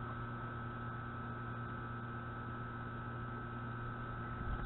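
A steady hum with a few constant tones that never change in pitch or level.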